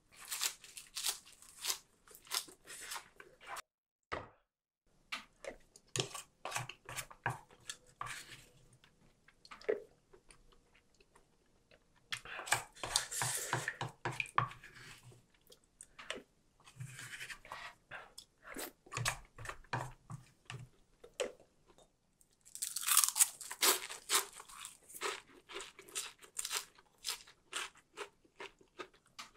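Close-miked eating: quick runs of crisp crunching chews as a mouthful of raw leafy greens and kimchi is bitten and chewed, broken by denser wet stretches as soup is taken from a spoon.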